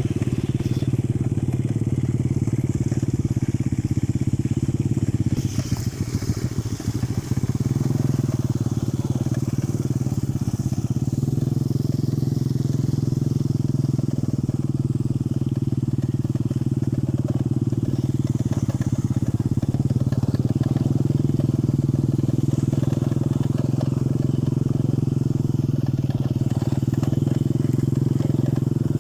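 A small engine running steadily, a low even drone, with a brief crackling patch a few seconds in.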